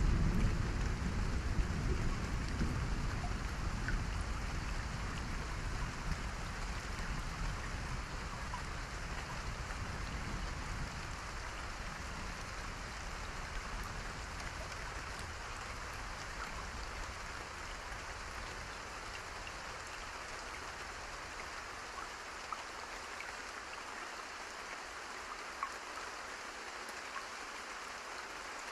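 Steady rain falling, with a few faint pops of a crackling campfire. A low thunder rumble dies away over the first fifteen seconds or so.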